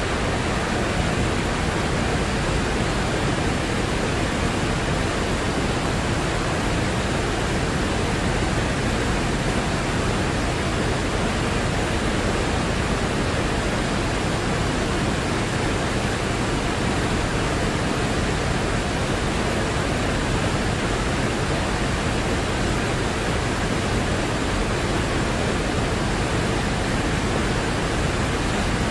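Mountain river rushing: a steady, even sound of running water that never changes.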